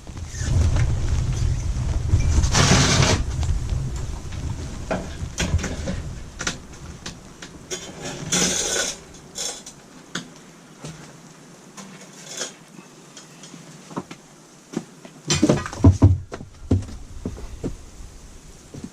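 Steel pieces clanking, knocking and scraping as they are handled and fitted together, with a cluster of louder metal clanks a few seconds before the end. A low rumble runs under the first several seconds.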